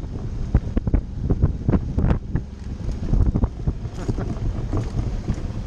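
Suzuki V-Strom motorcycle riding a gravel trail: low engine rumble under wind buffeting the microphone, with frequent irregular knocks and crunches as the tyres and suspension go over the gravel.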